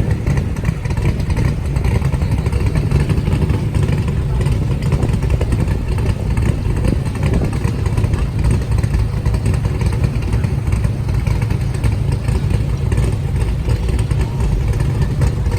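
Classic car engines running with a steady, low engine noise.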